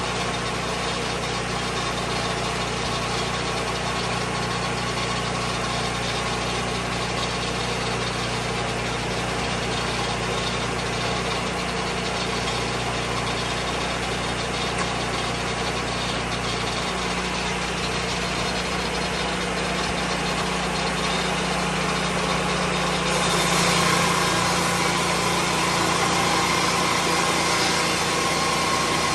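The engine of a Lucas Mill 10-30 swing-blade sawmill runs steadily. Its note shifts about two-thirds of the way through, and from then on it is slightly louder, with more hiss on top.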